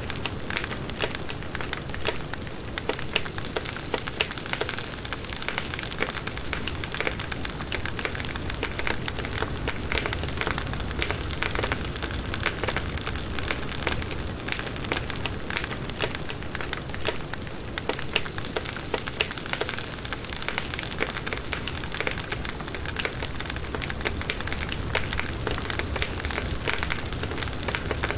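Firewood burning in a campfire: a steady crackle of many small snaps and pops, packed closely together.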